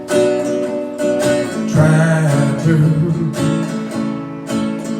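Acoustic guitar strummed in a country-blues song, with a singer coming in about two seconds in and holding a long note on the word "Trapper".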